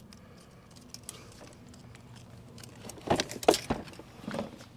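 Small metal hardware clinking and knocking as parts are handled and fitted, with a quick cluster of sharp clicks about three seconds in and another just after four seconds.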